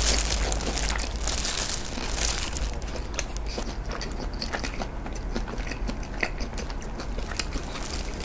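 Close-miked chewing of a mouthful of nori-wrapped rice ball (onigiri). It is loud and crunchy for the first couple of seconds, then turns to softer, clicky chewing.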